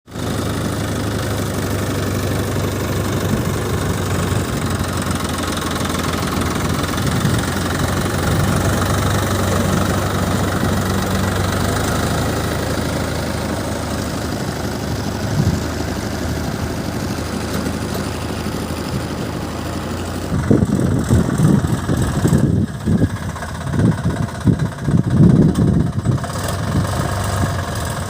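Diesel engine of heavy machinery running steadily at idle. About 20 seconds in, uneven low rumbles start and come and go over it.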